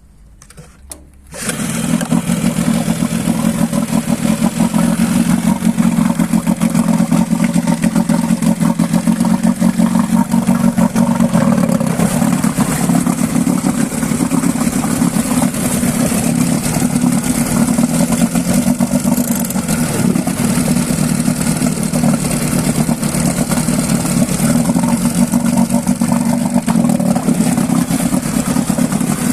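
Suzuki 9.8 hp outboard motor starting: it catches about a second in and then runs steadily.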